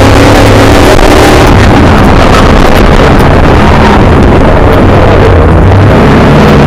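Milner R5 off-road racer's 5-litre V8 engine heard from inside the car, running hard under load at a fairly steady pitch, then revving up near the end. Very loud throughout.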